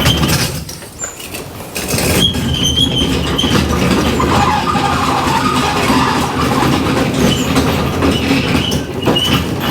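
Loaded wheeled bike trolley rolling across the floor, making a loud continuous rattling rumble with a few short high squeaks.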